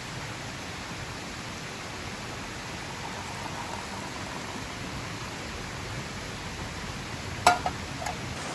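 Steady rushing hiss of water. About seven and a half seconds in there is a sharp clink, and a smaller one follows just after.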